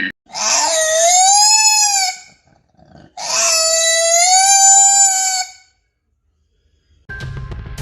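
An animal's long, high pitched call, given twice, each about two seconds, gliding up at the start and then held steady. Music comes in near the end.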